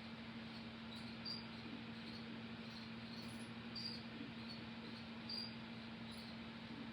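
Quiet room tone: steady hiss with a low electrical hum, and faint short high ticks every second or so.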